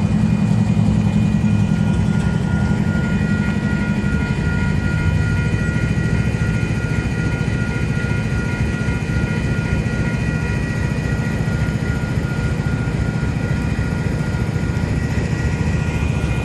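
Diesel train at a level crossing: a steady low engine hum that eases after about four seconds, with faint steady high tones above it.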